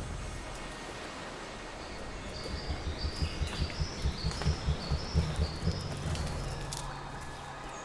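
Forest ambience with a small bird's short high chirp, repeated about twice a second from about two seconds in, over a steady hiss and low, rhythmic pulsing.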